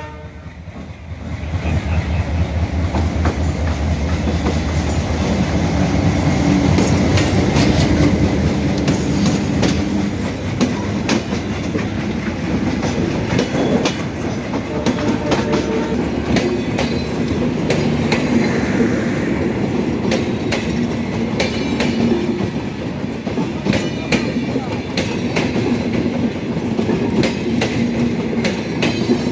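Madhumati Express passenger train running on the track and gathering speed. Its wheels clack over the rail joints, over a steady rumble from the train. The sound swells over the first second or two, then holds steady.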